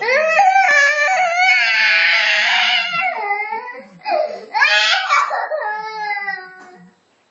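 A young child crying and whining in long, high-pitched wails that slide up and down in pitch; a brief break about four seconds in, then a second bout that trails off near the end.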